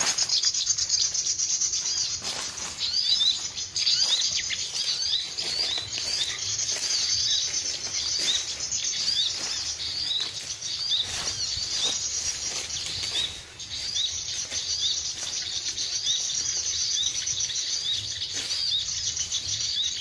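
A dense, continuous chorus of small birds chirping: many quick, high-pitched repeated notes, starting abruptly.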